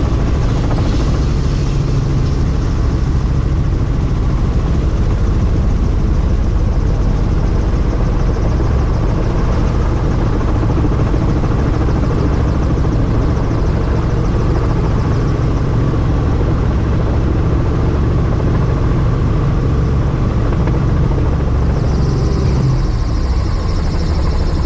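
Helicopter in flight with its doors off, heard from on board: a loud, steady rotor and engine rumble mixed with wind noise. A higher whine joins near the end.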